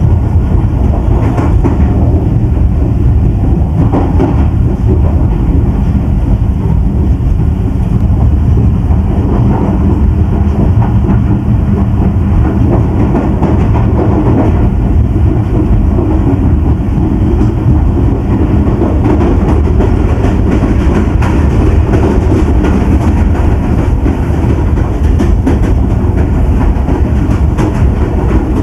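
Pakistan Express passenger train running along the track: a loud, steady noise of wheels on rails, mostly low in pitch, with faint clicks scattered through it.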